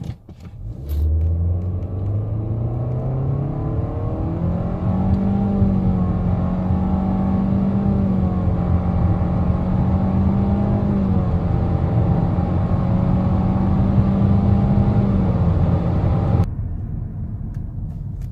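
Nissan Altima's 2.5-litre four-cylinder engine at full throttle through a CVT. The revs climb over the first few seconds, then hold at one steady high pitch while the car keeps gaining speed. About sixteen seconds in the throttle is released and the engine note drops suddenly to a quieter rumble.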